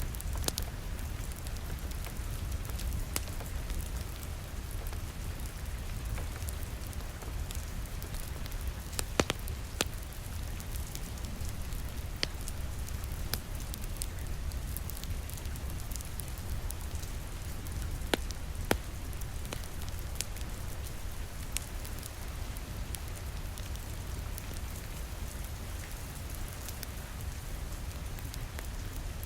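Steady rain pattering on a window, with a deep rumble underneath, over a crackling fireplace fire: scattered sharp pops, a few louder ones about a third of the way in and again a little past halfway.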